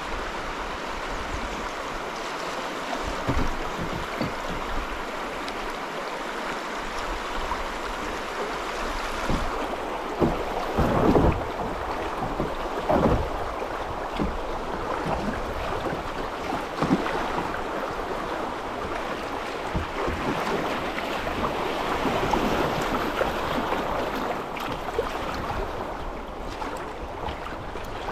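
Moving river water rushing and splashing, with wind buffeting the microphone; a few louder splashes come about ten to thirteen seconds in.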